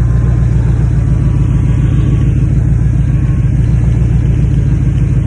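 Car engine idling steadily while the steering wheel is turned back and forth, working the freshly refilled power steering system.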